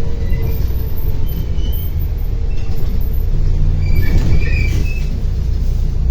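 Inside a MAZ-105 city bus on the move: steady low rumble of the engine and running gear, with road noise.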